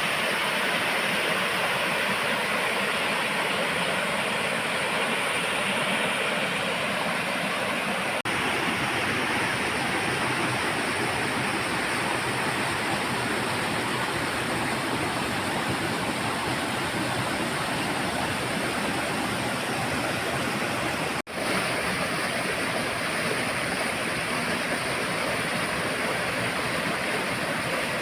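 Waterfall: a steady rush of falling water that briefly cuts out twice.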